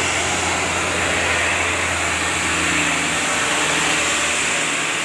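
Heavy diesel truck engine running steadily under load on a steep climb, with a continuous hiss over it.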